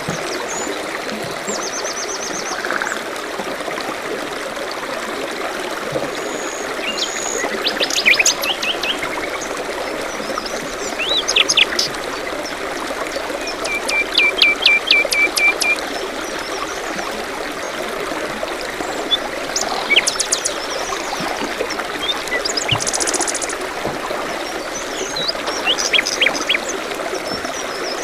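A stream running steadily, with songbirds calling over it in scattered short chirps and trills. One trill is a quick run of repeated notes about halfway through.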